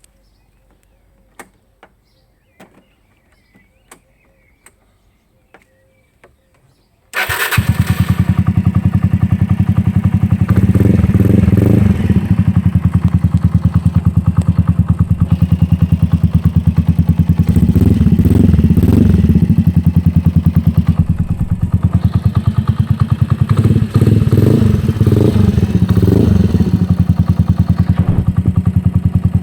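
Yamaha Maxster 125 scooter's single-cylinder four-stroke engine, running through a Turbokit exhaust with the dB-killer baffle removed, is started about seven seconds in after a few faint clicks. It idles loudly with a fast, even exhaust pulse, is revved briefly three times, and stops abruptly near the end.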